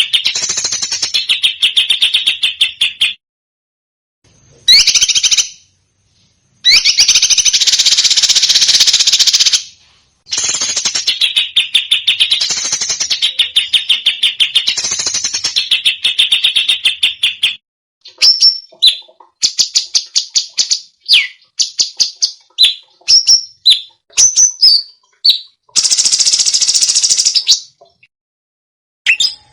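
Recorded songbird song in fast, rapid-fire bursts of repeated notes. The bursts last one to four seconds and are separated by abrupt silent gaps. In the second half they give way to a run of short separate chirps, then one more dense burst.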